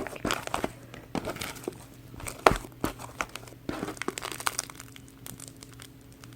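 Slime being squeezed and poked by hand, giving sharp crackling clicks and small pops that thin out near the end.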